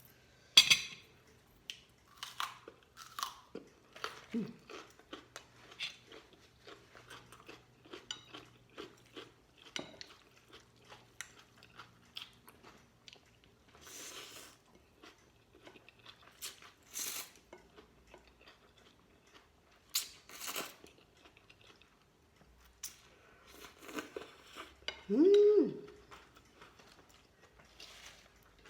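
Close-up chewing and crunching while eating pork and glass-noodle soup, with many short clicks and a few louder noisy bursts scattered through. About 25 seconds in, a brief pitched sound rises and falls, the loudest moment.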